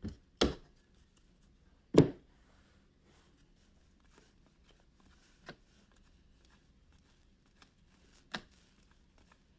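Trading cards being handled on a table: a few sharp taps and knocks as cards are set down and squared up, the loudest about two seconds in, with faint rustling of cards between.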